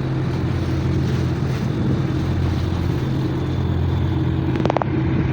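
Tugboat's diesel engine running steadily with a low hum, with a short burst of clicks about four and a half seconds in.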